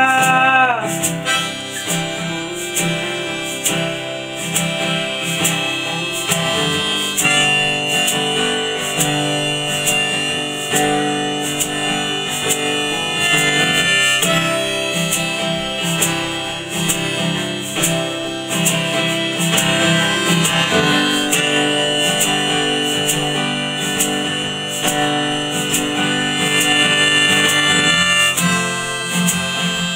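Instrumental break of an acoustic folk song: a harmonica plays long held notes over a steadily strummed acoustic guitar, with no singing.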